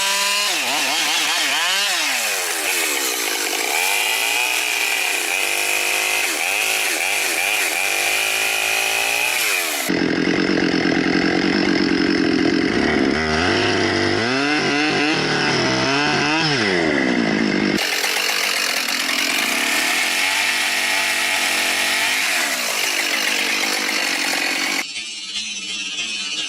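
Chainsaw running at high revs while cutting wood, its pitch rising and falling as the chain bites and frees. The sound changes abruptly about 10, 18 and 25 seconds in, as from one cut to another.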